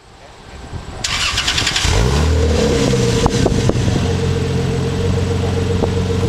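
Lexus SC300's 3.0-litre straight-six (2JZ-GE) cranked by the starter for about a second, catching and settling into a steady idle through an HKS Hi-Power single-exit exhaust with 3-inch stainless piping.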